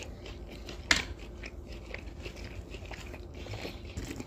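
Chewing of grilled skewer meat: steady small wet mouth clicks and smacks, with one sharp, loud click about a second in.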